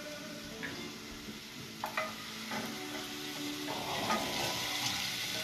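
Onion, garlic and hot pepper sizzling in oil in a stainless steel pot as a wooden spoon stirs them. There are a couple of light knocks about two seconds in.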